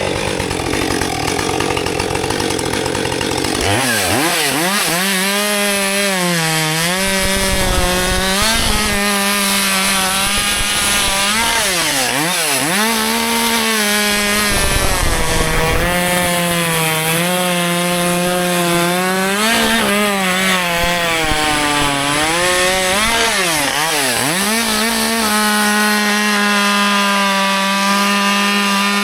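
Husqvarna 564 XP 62cc two-stroke chainsaw running at high revs while cutting wood. From a few seconds in, its high, steady pitch dips sharply several times under load and recovers each time.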